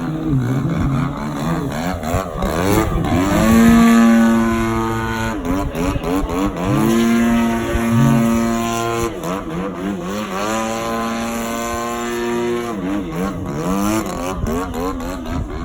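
DLE 60 two-stroke gasoline engine on an ARS300 88-inch aerobatic RC plane in flight. Its pitch holds steady three times for a couple of seconds each and swoops down and back up in between as the throttle and airspeed change through manoeuvres.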